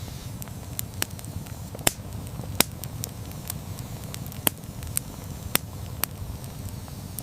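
Campfire burning: a steady low rumble of the flames with sharp, irregular crackles and pops from the burning wood, a couple of louder pops among them.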